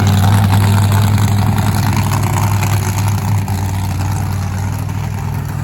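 Monster truck's supercharged V8 engine running loud, holding a steady pitch and easing off a little after about three seconds.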